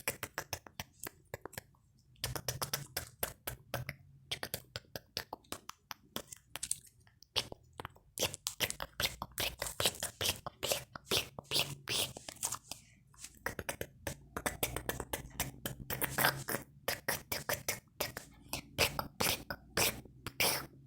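Soft, watery slime squished and worked by hand close to the microphone: rapid runs of wet clicks, pops and crackles with short pauses between them.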